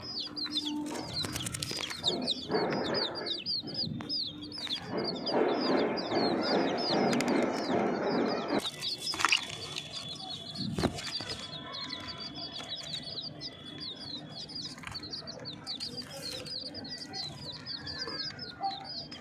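Baby chicks peeping, a rapid, unbroken run of high chirps. Louder scuffling noise over roughly the first half, and a single knock a little later.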